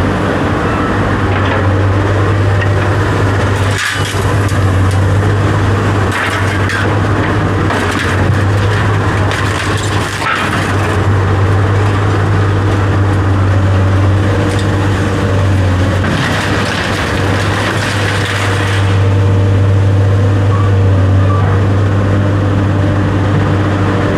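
A steady low mechanical hum, with scattered knocks and scraping noises over it.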